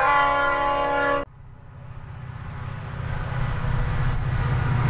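Train horn sounding one steady chord for just over a second, cutting off suddenly, then the rumble of an approaching train growing steadily louder.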